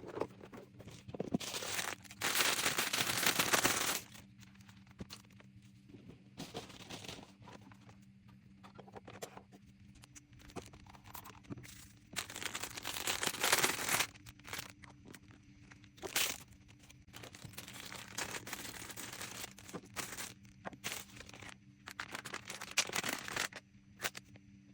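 Plastic packaging rustling and crinkling in several longer bursts, with small clicks and knocks of objects being handled and set down.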